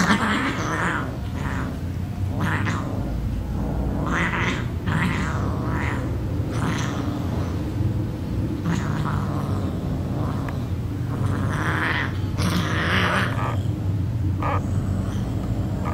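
Cats fighting: repeated bursts of hissing and yowling, some short and some drawn out for about a second, over a steady low hum.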